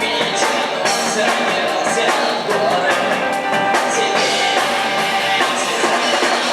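Live rock band playing: electric guitar and drums, with some singing.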